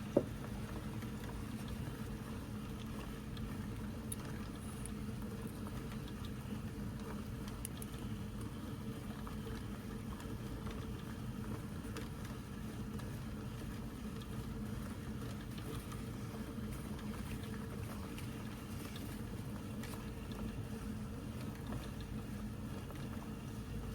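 Steady low background hum with one sharp click just after the start and a few faint ticks scattered through.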